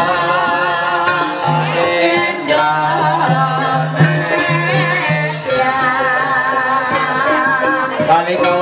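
Ebeg (kuda lumping) music: a singer's wavering, ornamented voice over a traditional Javanese ensemble, playing on without a break.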